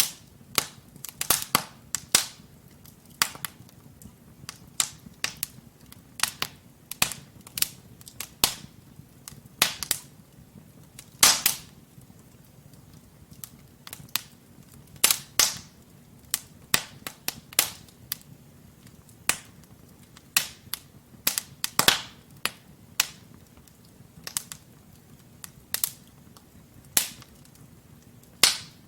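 Wood fire in a fireplace crackling, with irregular sharp pops from the burning logs, a few of them louder, over a soft low rush of the flames.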